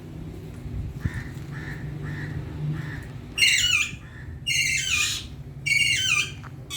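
Indian ringneck parakeet giving three loud, harsh squawks, each falling in pitch and about half a second long, after a few soft chirps.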